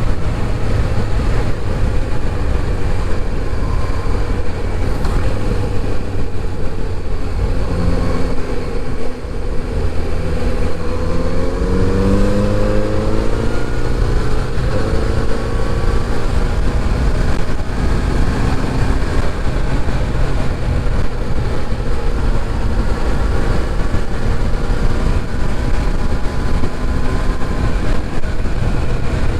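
Kawasaki Z900RS inline-four engine running under way with a steady low rumble. About a third of the way in the revs drop briefly, then climb as the bike accelerates, before settling back to a steady cruise.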